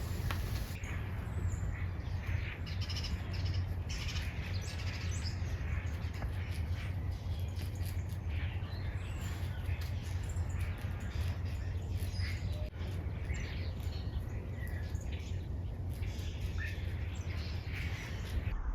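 Many birds chirping and calling over one another, some harsher caw-like calls among them, over a steady low hum.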